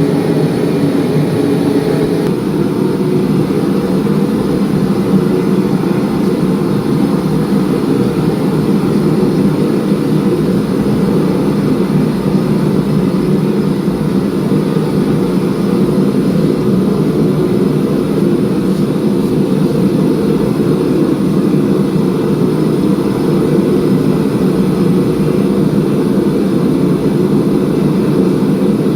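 Loud, steady drone of forging-shop machinery running, with a slight change in its sound about two seconds in.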